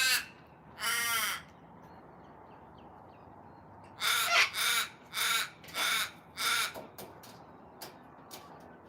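Raven cawing: one drawn-out caw about a second in, then a run of five short caws from about four seconds in.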